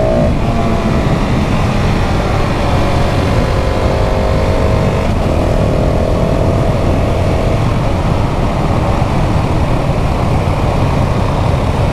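KTM 690 SMC R's single-cylinder engine pulling under acceleration, its pitch rising then steady, with a brief drop about five seconds in like a gear change, under heavy wind rush.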